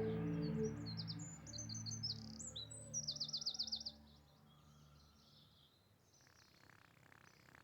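Birdsong: quick high chirps and a fast trill of about eight notes, over held musical chords that fade out about four seconds in.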